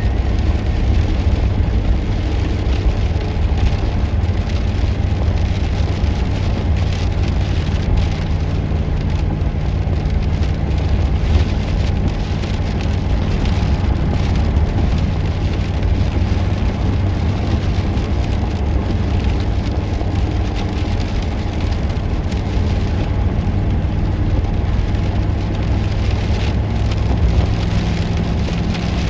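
Steady engine drone and tyre noise of a vehicle driving along, heard from inside the cab, with an even rain-like hiss over a deep rumble.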